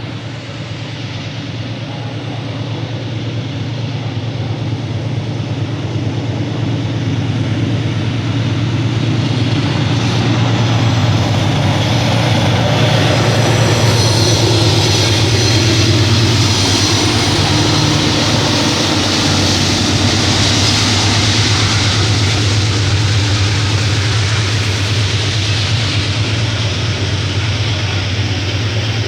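A pair of GE C36-7 diesel-electric locomotives, with their 16-cylinder diesel engines, running with a train of flatcars. The low engine drone grows louder over the first ten seconds or so, then holds steady as the hiss and rumble of the wheels on the rails builds.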